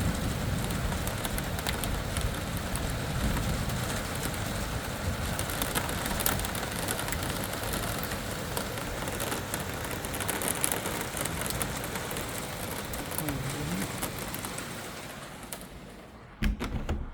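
Rain falling steadily, with scattered drop taps on a hard surface. The rain noise dies away shortly before the end, and a couple of sharp knocks follow.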